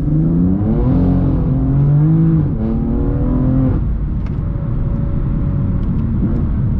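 BMW M4 CS twin-turbo inline-six with Akrapovic exhaust accelerating through the gears, heard from the cabin: the engine note climbs, drops with two quick upshifts, and climbs again. A little under four seconds in the throttle lifts and it settles to a steady cruise.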